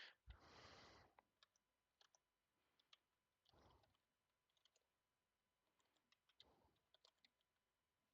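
Near silence with faint, scattered clicks of computer keyboard keys and mouse buttons, a few at a time, as code is typed.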